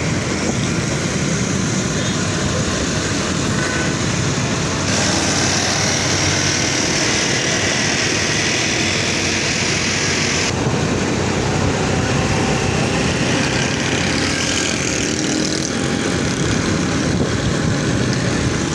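Steady rush of road and traffic noise with wind on the microphone while riding an electric bike; a brighter hiss comes in about five seconds in and drops away about ten seconds in.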